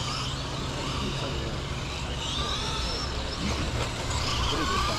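Electric motors of radio-controlled 2wd trucks whining as they race around a dirt track, the pitch rising and falling with the throttle, more of them in the second half. A steady low hum runs underneath.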